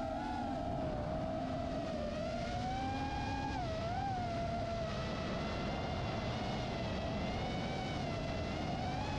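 Electric motor and propeller of a radio-controlled model airplane in flight: a steady whine whose pitch drifts up and down, with a brief dip about four seconds in, over a low rumble.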